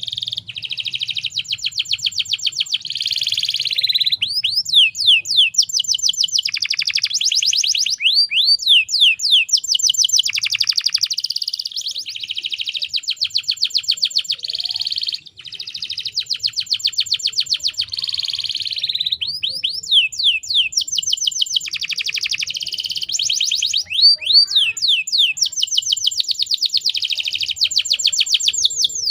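Canary singing continuously in long, fast trills of rapidly repeated notes, broken up by quick sweeping whistles that rise and fall, with a brief pause about halfway through.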